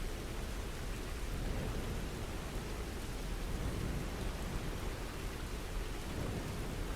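Steady rainfall, an even hiss of rain with no break or change.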